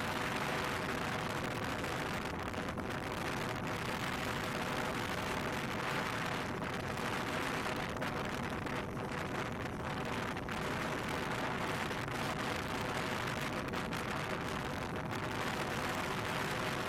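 Motorcycle on the move: a steady rush of wind noise over the microphone with the engine's even drone underneath.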